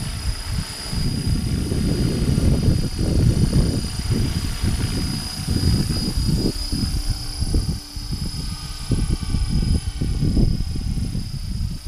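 HK-500GT electric RC helicopter in flight, its brushless motor and rotor drive giving a steady high-pitched whine. Gusty wind buffeting on the microphone is the loudest sound throughout.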